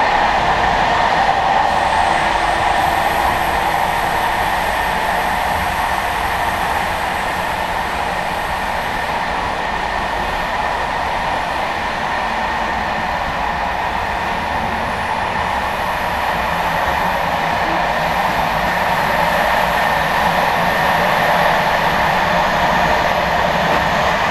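Running noise inside an SNCB M4 passenger coach travelling at speed: the steady sound of wheels on rail, heavy in the middle range, with a faint high whine.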